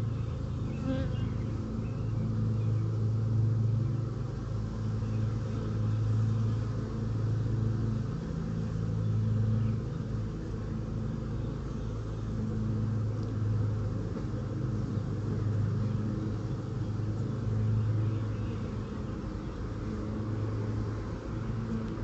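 Honeybees buzzing at an opened hive, a steady low hum that swells and fades every few seconds.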